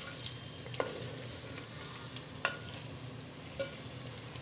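Marinated chicken sizzling in hot mustard oil in a clay handi as it is stirred with a spatula, with three sharp knocks of the spatula against the pot, about a second, two and a half seconds and three and a half seconds in.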